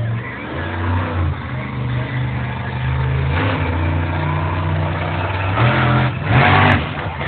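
Monster truck engine running loud and revving, its pitch rising and falling, with the strongest revs near the end.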